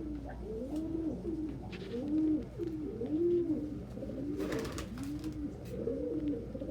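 Domestic pigeons cooing, several at once, in a continuous series of low rising-and-falling coos. A brief rustle, like wings or feathers, comes about four and a half seconds in.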